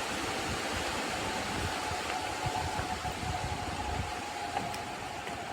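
Wind blowing against the microphone: an uneven low rumble over a steady hiss, with a faint steady hum.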